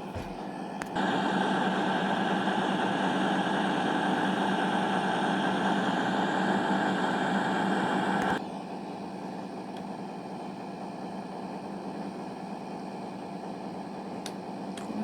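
CrossCountry Voyager diesel multiple unit idling at the platform before departure, its underfloor diesel engines running steadily. About a second in it gets suddenly louder and holds steady for some seven seconds, then drops back to the quieter idle.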